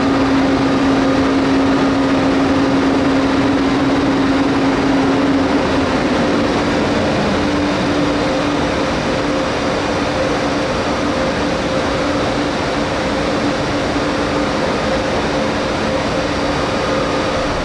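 Electric train at the station running with a steady rumble and hiss under an even hum, which shifts slightly in pitch about six seconds in.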